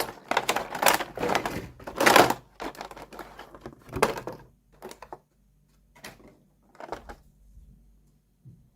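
Plastic toy packaging crinkling and crackling as it is handled, then a few separate light clicks and taps from small plastic pieces, thinning out toward the end.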